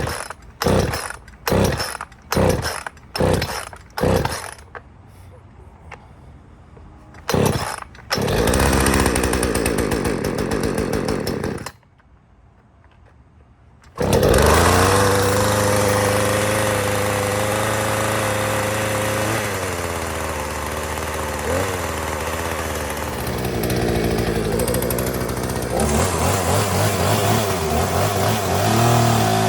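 Poulan Pro P3816 two-stroke chainsaw, with a modded muffler, being pull-started from cold: a quick run of about eight cord pulls, then one more. It fires and runs for a few seconds, then dies. About two seconds later it starts again and keeps running steadily as it warms up.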